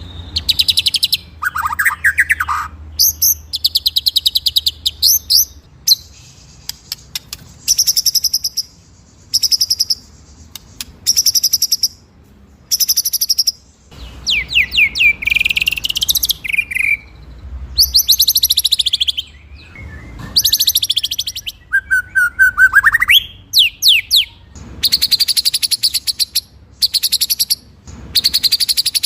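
White-rumped shama (murai batu) singing a loud, varied song: fast rolling trills alternating with sharp, high piercing notes and whistled sweeps that rise and fall, in phrases separated by short pauses.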